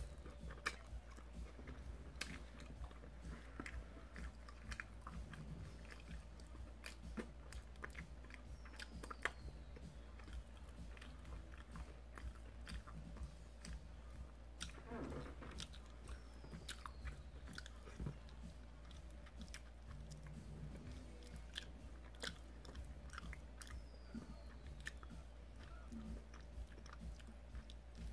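Faint, close-miked chewing and biting on chicken wings, with wet mouth clicks and smacks scattered throughout.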